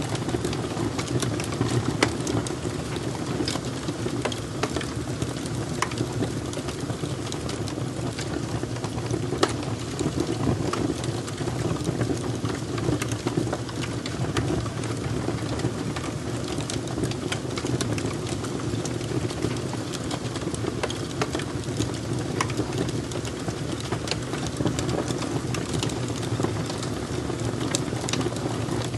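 Fire crackling: many sharp pops and snaps at irregular intervals over a steady low rushing sound of the burning.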